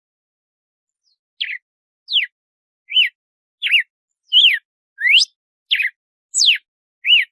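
Red-cowled cardinal (galo-de-campina) singing its 'açoite' song: after a second and a half of silence, a brisk series of short, clear whistled notes, about one every 0.7 s, some sweeping up and others sweeping down.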